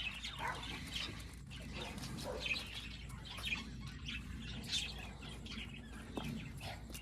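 Small birds chirping, many short high calls scattered throughout.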